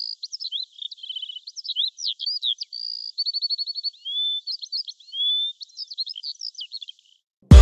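A songbird singing a rapid, varied song of chirps, trills and short whistles, stopping about seven seconds in. Loud electronic music with a heavy bass beat cuts in at the very end.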